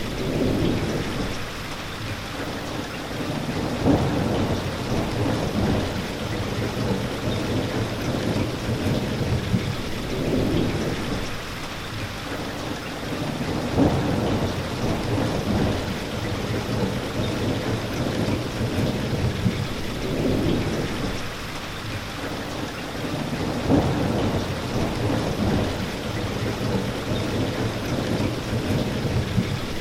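Steady rain falling, with low rumbles of thunder swelling up every few seconds, about five times.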